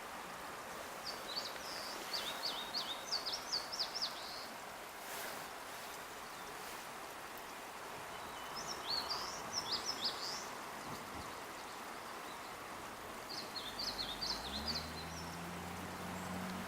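A songbird singing three short phrases of rapid, high chirping notes, each a couple of seconds long, over a steady outdoor hiss. A faint low hum comes in near the end.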